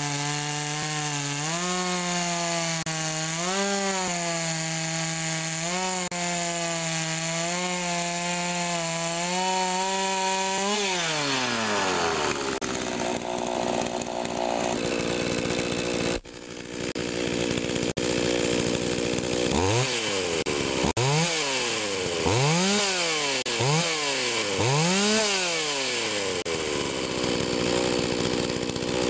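Pioneer Partner P500 50cc two-stroke chainsaw engine running at a steady lower speed, then revved hard to full throttle about ten seconds in and held. Later it is blipped up and down about five times in quick succession before being held at high revs again.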